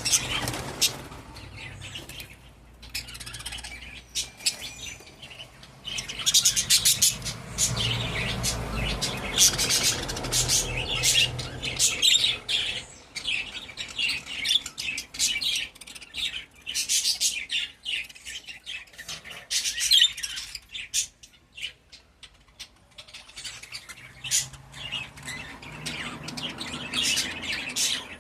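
Pet budgerigars chirping and chattering in rapid trills of short high calls, coming in bouts with brief lulls between them.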